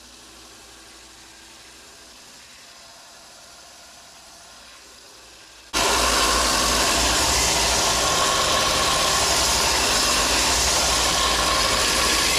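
Belt sander running with a faint steady hum. About halfway through, a forged Damascus steel billet is pressed against the new belt, and a loud, even grinding hiss starts suddenly and holds steady.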